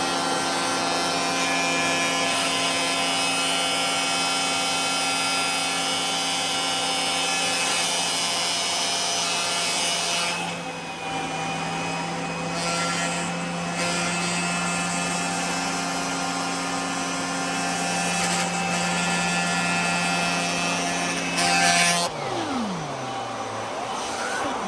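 Vacuum cleaner running steadily with a motor hum and airflow hiss, the hiss changing briefly a couple of times partway through. About 22 seconds in, the motor is switched off and its pitch falls as it spins down.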